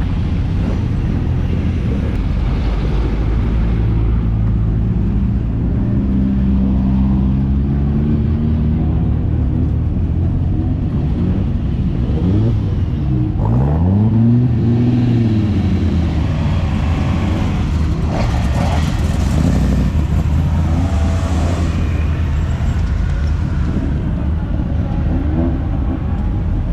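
Race car engines idling in a group, with one engine briefly revved down and up about halfway through.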